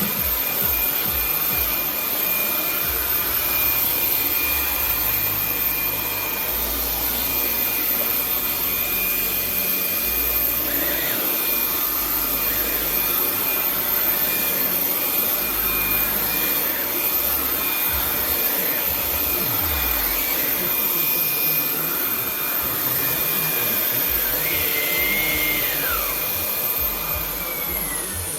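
Vax Blade 4 cordless stick vacuum cleaner running: a steady motor whine over the rush of suction, with the floor head's rumble shifting as it is pushed along the floor. Near the end the motor is switched off and its whine falls away.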